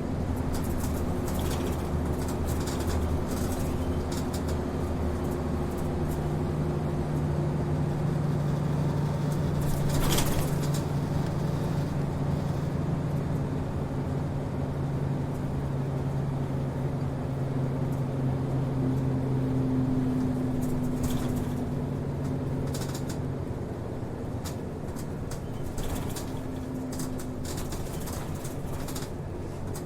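Inside a route bus on the move: the diesel engine drones steadily, its pitch shifting slowly as the bus accelerates and eases off, over road noise with scattered rattles and knocks, one sharper knock about ten seconds in.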